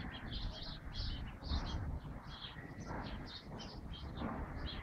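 Small birds chirping over and over in short, quick high notes, over a steady low background noise.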